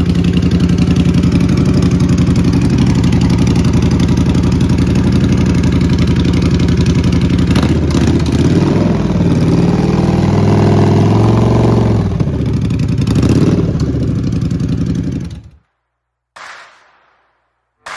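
Custom Triumph Bobber's parallel-twin engine running through a loud aftermarket exhaust, steady at first, then revved up and down several times. The engine sound cuts off suddenly near the end.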